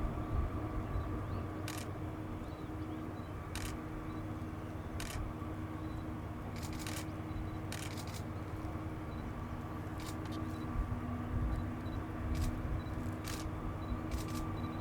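A 7600-series diesel-electric locomotive hauling a train, giving a steady drone with a low rumble, broken by short sharp clicks every second or two, some of them in pairs.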